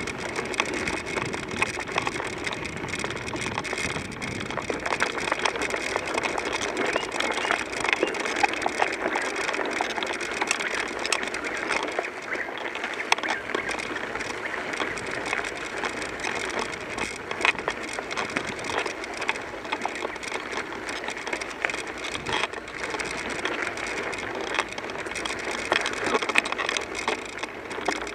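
Bicycle riding along a trail: steady tyre noise with constant small clicks and rattles from the bike.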